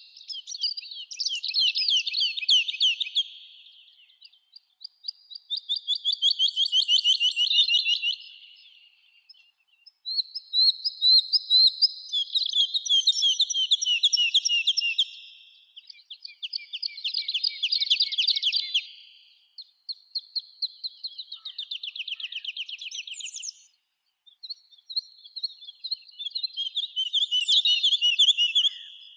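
Songbirds singing: a series of fast, trilled song phrases a few seconds long with short pauses between them, two birds overlapping now and then.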